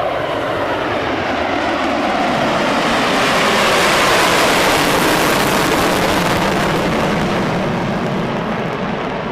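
B-1B Lancer bomber's jet engines passing by in a low flyby, the rush of jet noise swelling to a peak about four seconds in and then slowly fading as it moves away.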